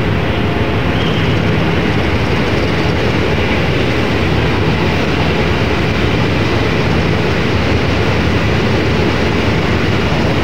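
A passenger train of economy-class coaches passing close by on the platform track, its wheels making a loud, steady rumble on the rails.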